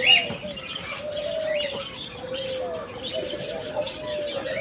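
Pigeons cooing steadily in overlapping calls, with short chirps of small birds over them.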